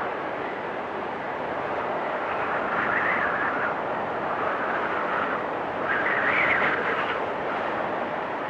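Storm wind blowing with a whistling noise, swelling into louder gusts about three seconds in and again about six seconds in.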